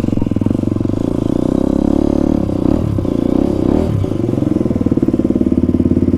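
Motorcycle engine running at low speed with a steady, even firing pulse; its pitch wavers up and down for about a couple of seconds in the middle, then settles back to a steady beat.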